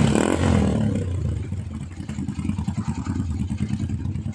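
Motorcycle engine and exhaust revving, then dropping back to a fast, pulsing idle about a second in.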